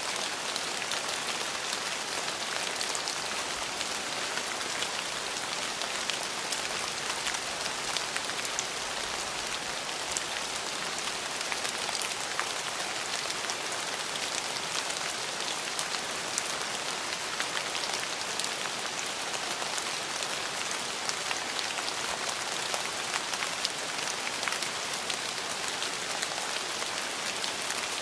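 Steady rain falling, with many fine drops pattering on a surface throughout.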